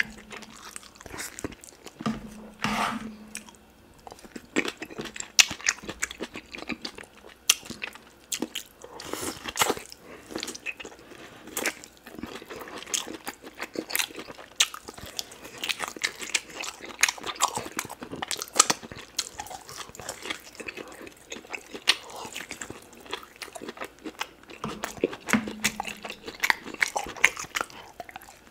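Close-miked chewing and biting on oxtail meat, with many sharp mouth clicks and smacks.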